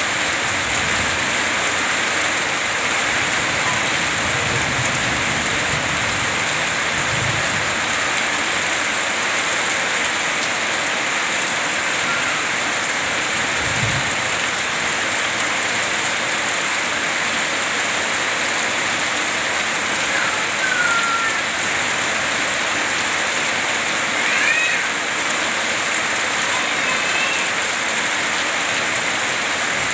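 Heavy rain falling steadily, an even hiss of rain on the ground and foliage, with water running off a roof edge. Low rumbles of thunder come and go in the first half.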